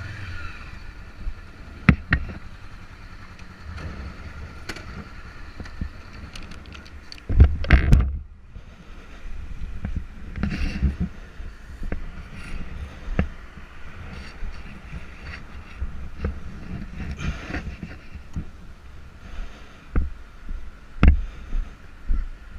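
Motorcycle riding in traffic, heard on an onboard camera: steady engine and road rumble with wind noise on the microphone. Several sharp knocks cut through, the loudest cluster about a third of the way in.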